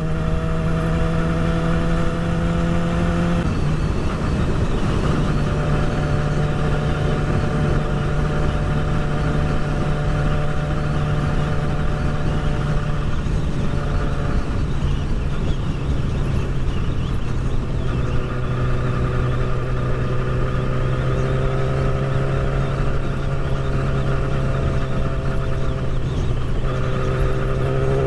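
Motorcycle engine running at a steady cruise, with heavy wind noise over the rider's helmet. Its pitch steps slightly a few times as the throttle or gear changes.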